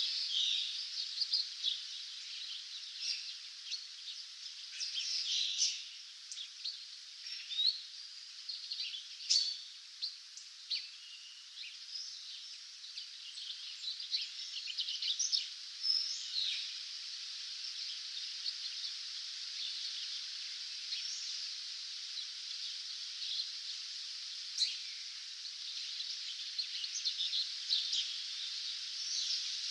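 Dawn chorus of many birds chirping and singing, with short overlapping calls over a steady high haze of more distant birdsong; the calls are busiest in the first half and thin out later.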